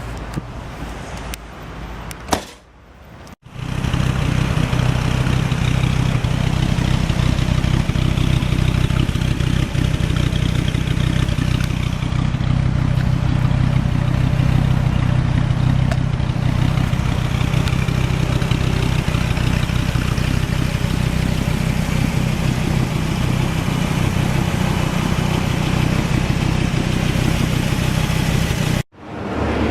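Dodge Viper SRT-10's 8.3-litre V10 idling steadily. It cuts in sharply a few seconds in and stops abruptly near the end. Before it there is faint noise with a single click.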